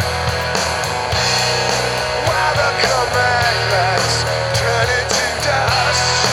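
Full-band rock song recording: drums keeping a steady beat under bass and distorted guitar, with a lead melody line that bends in pitch through the middle.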